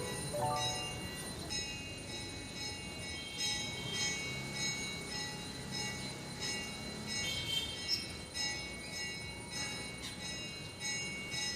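Background music with a tinkling, bell-like melody of short high notes over a soft low accompaniment.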